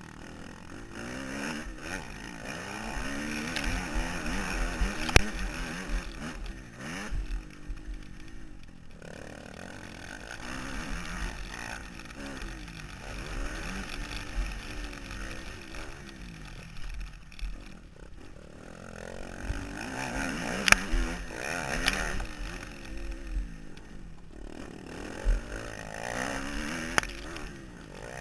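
Motocross dirt bike engine revving up and backing off again and again through the ride, with low wind rumble on the helmet-mounted microphone and a few sharp knocks.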